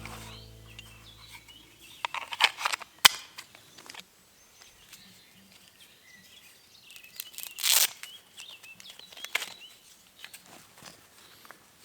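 Music fading out, then a few rustles and sharp clicks, the loudest a longer rustling burst about eight seconds in, over faint bird chirps in an outdoor setting.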